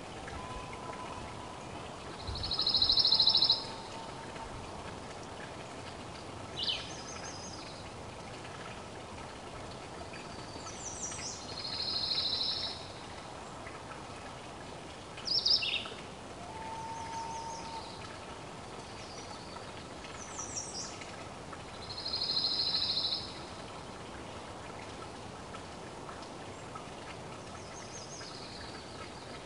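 Small songbirds singing at intervals over steady outdoor background hiss. A rapid high trill lasting about a second comes back roughly every nine to ten seconds, with short high whistled notes between.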